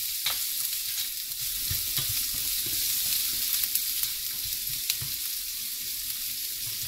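Diced green beans and carrot sizzling in hot oil in a frying pan over high heat, with a steady hiss. A spatula stirring them scrapes and knocks against the pan now and then.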